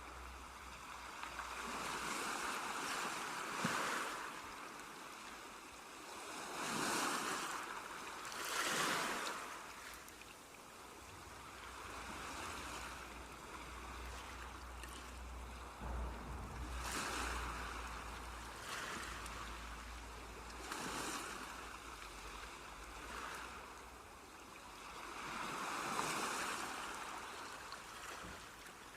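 Sea waves breaking and washing up the shore, each wash swelling and fading every few seconds, over a low rumble.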